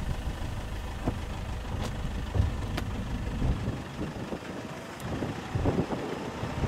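Vehicle engine running with a low rumble that fades about four seconds in, with a few sharp clicks and wind gusting on the microphone near the end.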